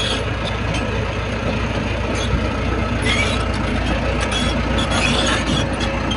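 Shantui crawler bulldozer's diesel engine running steadily, with scattered short metallic clicks and squeaks over it.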